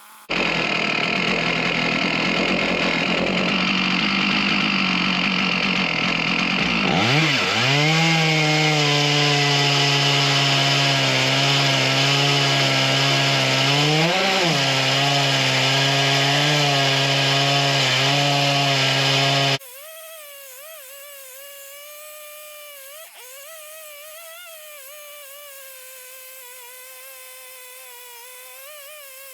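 Large Stihl chainsaw on an Alaskan chainsaw mill, running at full throttle and ripping lengthwise through a big white pine log. The engine pitch dips and recovers twice as the load changes. It cuts off suddenly about two-thirds of the way in to a much quieter, wavering engine drone.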